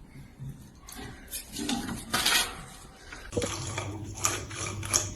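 Light clattering and clicking of small hard objects knocking together. A low steady hum starts about two-thirds of the way in, under a run of quick ticks.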